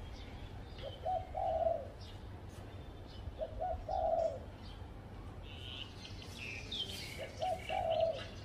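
Spotted dove cooing three times, about three seconds apart, each call a short note followed by a longer, fuller one. Other small birds chirp at a higher pitch, busiest in the second half.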